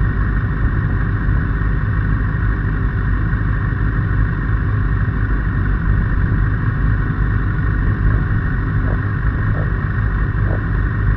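Kawasaki ZX-6R inline-four sports-bike engine idling steadily, with no revving, as other race bikes idle around it.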